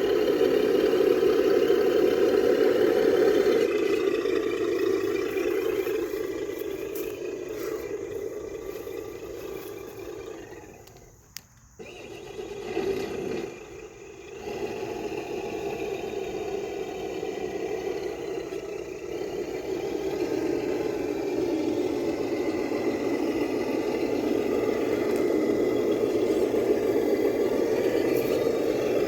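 Traxxas TRX-6 six-wheel RC crawler's electric motor and geared drivetrain whirring steadily as it crawls under load, hauling a wide load. It fades and stops briefly about eleven seconds in, gives a short burst, then starts whirring again.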